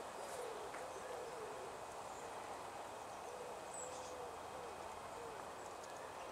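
A bird's low, soft cooing or hooting calls: a series of short repeated notes, over a steady background hiss, with a brief high chirp from a small bird about four seconds in.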